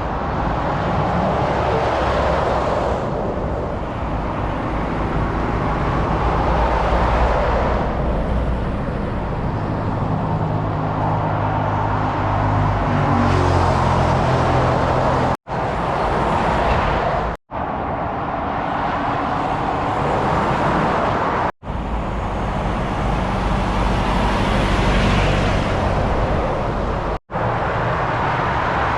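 Motorway traffic passing: steady tyre and engine noise from lorries and cars, with a heavy truck's engine note standing out from about nine to fifteen seconds in. The sound cuts out abruptly four times, for a split second each.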